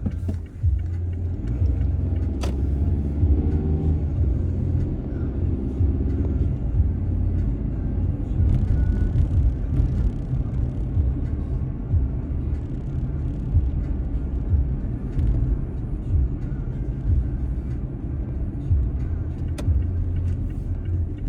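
Car driving, heard as steady road and engine rumble, with a few sharp clicks.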